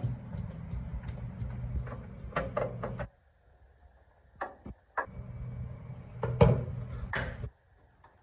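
Sharp clicks and knocks, like parts or tools being handled, over a steady low hum. The hum drops out twice, leaving near silence between the knocks.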